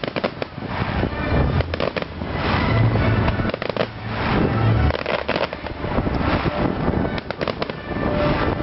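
Fireworks going off: many sharp cracks and crackling in quick succession.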